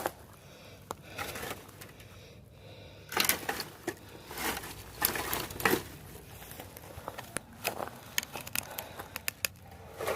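Irregular scraping and rustling with scattered sharp knocks as old fence wood is worked loose and handled, the busiest stretch a few seconds in.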